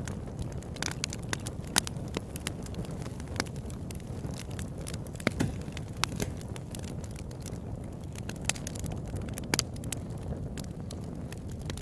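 Campfire burning: a steady low rumble of flames with frequent sharp crackles and pops at irregular intervals, a few of them louder than the rest.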